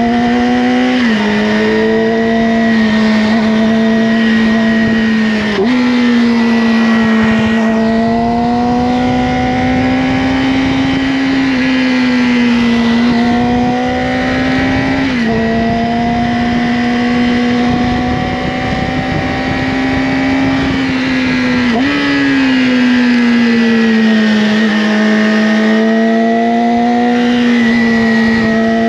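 Yamaha R6 inline-four sport bike engine with an Akrapovic slip-on exhaust, running under way at steady revs that drift slowly up and down, with wind rush. The engine note jumps in pitch about four times (about a second in, near six seconds, around fifteen seconds, and about twenty-two seconds in) as gears are changed.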